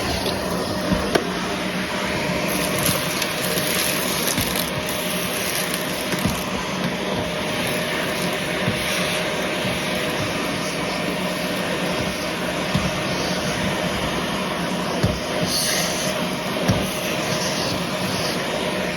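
Vacuum cleaner running steadily, with a few short clicks along the way.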